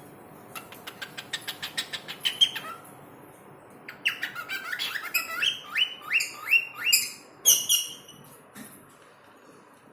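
A pet talking bird calling. It makes a quick run of short clicking notes for about two seconds, then after a pause a series of repeated whistled calls, about two or three a second, and a louder call near the end.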